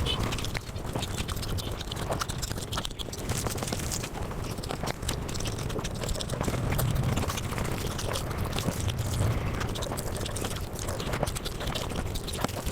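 Close-miked eating sounds sped up about five times: chewing and mouth smacking turned into a dense, fast run of clicks.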